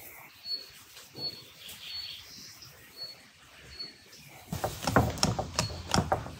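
A small bird chirping, short high single notes about once a second. Near the end comes a quick run of sharp knocks and clatter, louder than the chirps.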